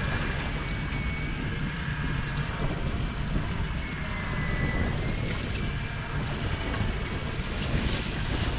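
Wind buffeting the microphone over sea and boat noise on a small fishing boat in a swell, with a faint wavering high whine.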